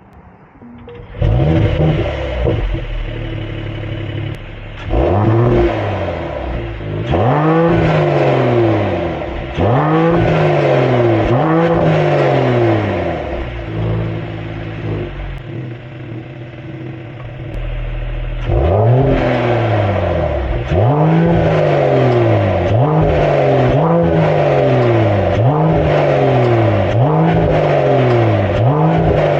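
2022 Mercedes-AMG E53's 3.0-litre inline-six starting up about a second in, then revved in a series of quick blips that fall back to idle. It settles to a steady idle midway, then gets a faster run of revs, about one a second, near the end. This is the car's stock exhaust sound with the factory downpipe, before a catless downpipe is fitted.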